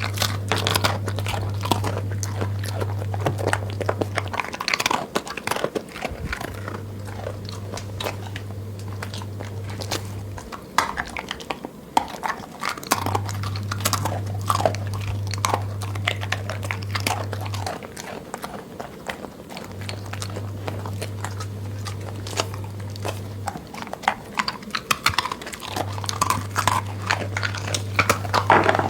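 A dog chewing and biting its food, with a dense run of irregular crunching clicks, eating in a goat-like grazing manner. A low steady hum comes and goes in stretches of a few seconds underneath.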